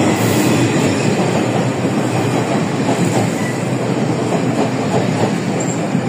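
A Chu-Kuang Express passenger train, an orange electric locomotive hauling its coaches, rolling past close alongside the platform. A loud, steady rumble of wheels on rail, with faint, regular clacking over the rail joints.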